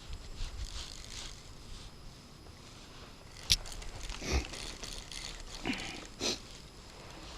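Gear being handled in a kayak: a single sharp click about three and a half seconds in, then a few dull knocks and rustles over a low background hum.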